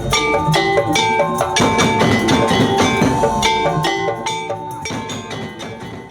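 Madurese traditional ensemble playing: fast gendang drum strokes over short, pitched struck notes, fading out near the end.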